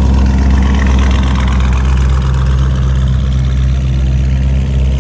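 A car engine idling steadily, loud and deep.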